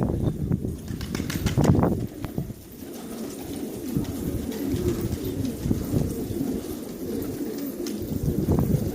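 Pigeons cooing, a low murmur of overlapping repeated coos, with a few louder knocks in the first couple of seconds.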